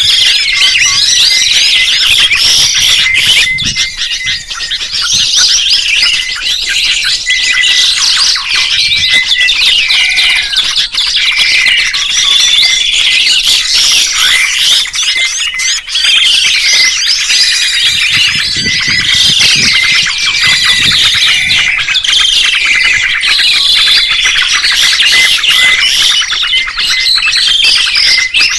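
Songbirds chirping and singing continuously, many rapid high calls, trills and whistled glides overlapping without a break.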